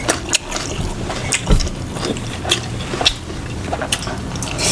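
Close-miked eating: chewing with irregular crisp crunches and small mouth clicks, a few each second.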